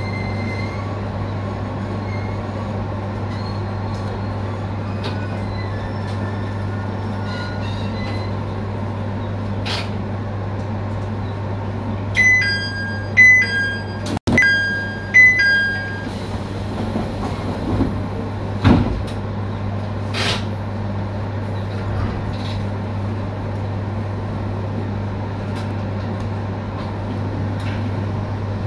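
Electric train running on the Tohoku Main Line with a steady hum. About halfway in, a short run of ringing two-pitch bell tones sounds for a few seconds, followed by a couple of knocks.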